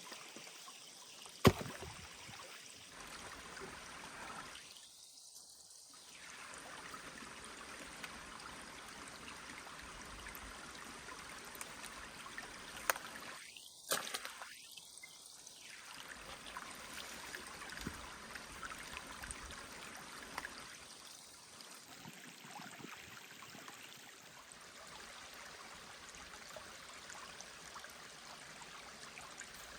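A small mountain stream trickling steadily, with a few sharp clicks or knocks, one about a second and a half in and another about halfway through.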